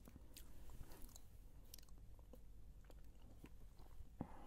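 Faint, close-up chewing of a shawarma wrap, with soft scattered mouth clicks.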